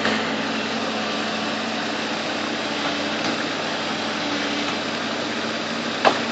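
Bulldozer engine running steadily, with one short sharp knock near the end.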